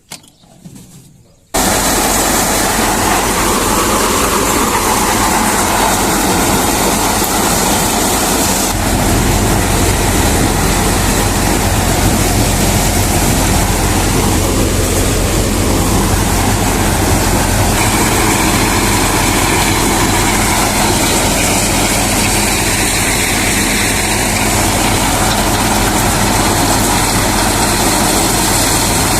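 Reinforce P-335 maize thresher running at working speed with its driving engine, a loud, steady machine noise with a low engine drone. It comes in suddenly about a second and a half in, and the low drone gets heavier about nine seconds in.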